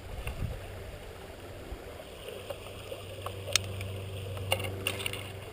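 Steady rush of a flooded river running high after a snowstorm, with a few sharp clicks about three and a half, four and a half and five seconds in.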